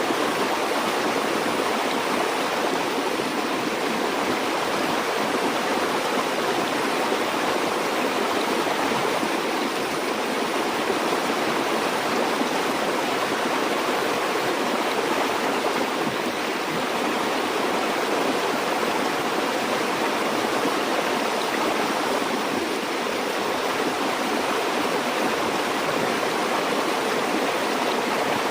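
Stream water flowing steadily over rocks, an even rushing babble with no breaks.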